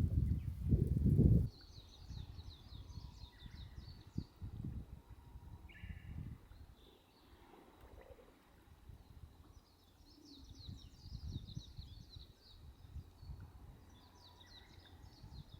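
Loud low rumbling noise that cuts off about a second and a half in. Then birds chirping in repeated high trills with a few short calls, over a faint low rumble.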